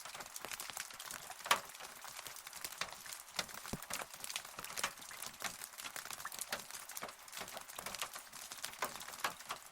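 Rain falling: a steady hiss of rain with many close, irregular drops ticking on a hard surface, one drop louder than the rest about a second and a half in.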